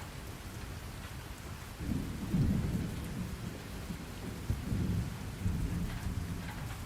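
Steady rain falling, with a low roll of thunder that rises about two seconds in and rumbles away over the next few seconds.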